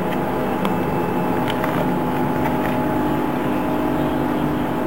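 Samsung washing machine with a digital inverter motor on a high-speed spin at 1400 RPM: a steady whirring hum with a few faint ticks.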